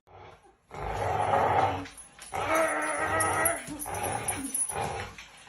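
A dog vocalizing in three rough, drawn-out sounds of about a second each.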